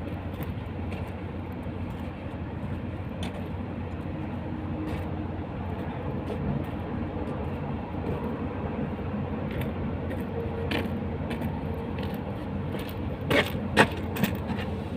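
Road roller engine running steadily, with a few sharp knocks near the end.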